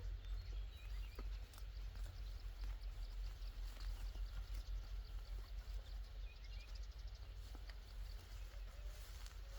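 Outdoor rural ambience: a steady low rumble with scattered small clicks and a few faint high chirps.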